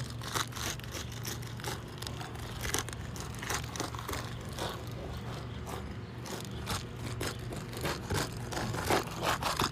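Brittle asphalt shingle being pried up with a roofing bar: irregular crackling, crunching and scraping as the sealed tab and mat tear loose, a sign of shingles too aged and brittle to be lifted without damage.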